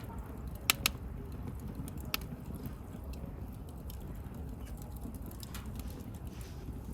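Wood campfire burning: a low steady rumble of the flames with a scatter of crackles and a few sharp pops, two close together about a second in and another about two seconds in.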